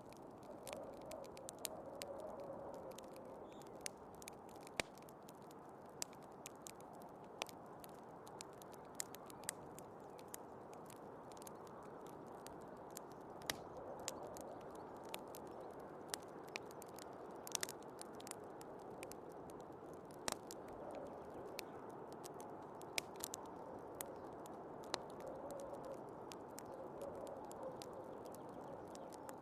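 Wood fire crackling with irregular sharp pops, over steady snowstorm wind that swells and eases with faint whistling tones.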